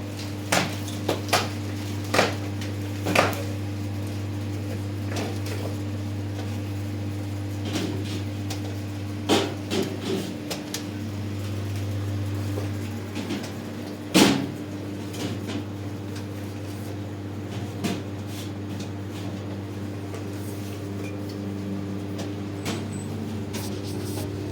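Scattered knocks and clatter of objects being handled and set down, a quick run of them near the start and the loudest about fourteen seconds in, over a steady low hum.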